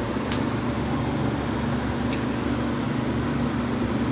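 Steady mechanical hum with a few level low tones, like a fan running, with a couple of faint clicks.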